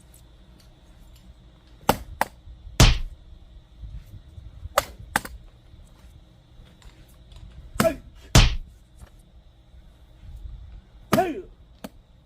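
Axe blows on a large, hard old oak round that does not split easily: a series of sharp chops, mostly in pairs, with the heaviest strikes about three seconds and eight seconds in.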